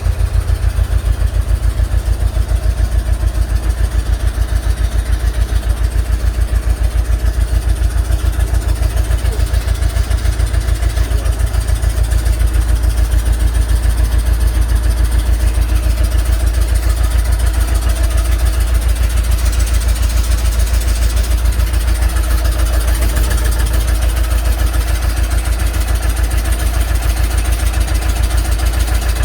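Large engine idling with a steady, fast low throb.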